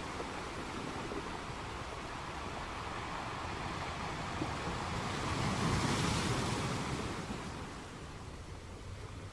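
Sea waves washing onto a shore: a steady wash of surf, with one wave swelling to its loudest about six seconds in and then receding.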